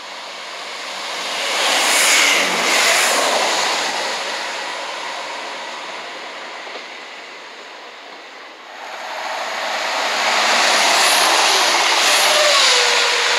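Diesel multiple-unit trains passing through a station, one after the other. Rail and engine noise swells and fades over the first few seconds, then rises sharply again about nine seconds in as a second unit runs close by, with a tone that drops in pitch as it passes.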